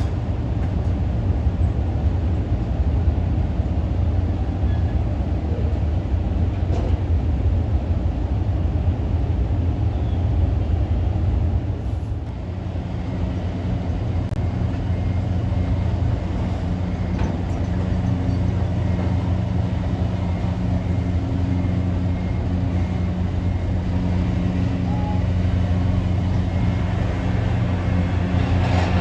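High-speed ferry's diesel engines running with a steady low drone. About twelve seconds in, after a brief dip, a steadier pitched engine hum comes in.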